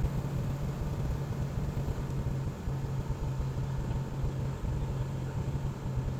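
Cessna 177 Cardinal's piston engine and propeller running steadily, a constant low drone over a rumbling hiss.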